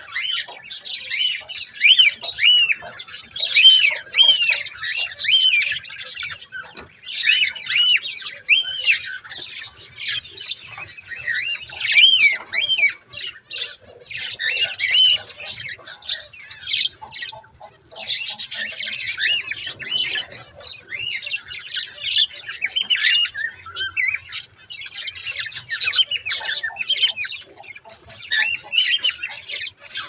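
Birds calling: repeated high, arched chirps mixed with raspy squawks, in bursts with short pauses between them.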